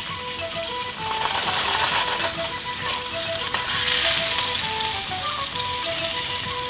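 A hamburger patty sizzling as it cooks over a fire, the hiss swelling about two seconds in. Light background music of short plucked notes plays along.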